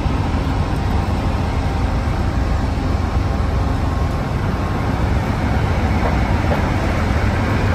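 Amtrak diesel locomotive idling while the train stands at the station, a steady low rumble.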